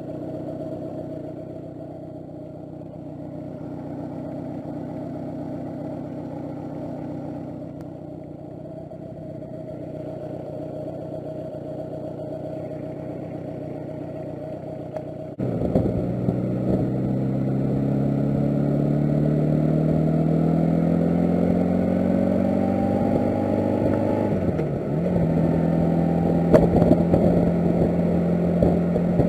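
Honda Gold Wing GL1200's flat-four engine running at a steady pitch. About fifteen seconds in it cuts abruptly to a louder run that rises steadily in pitch as the motorcycle accelerates, dips briefly toward the end, then holds steady.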